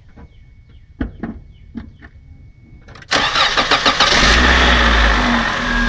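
A few clicks and a faint steady tone, then about three seconds in a car engine is cranked, catches with a loud burst and settles into a steady idle.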